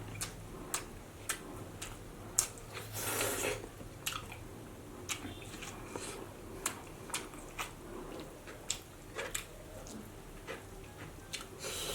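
Close-up mouth sounds of someone eating: irregular wet clicks and smacks of chewing, with a longer, louder burst about three seconds in and another near the end.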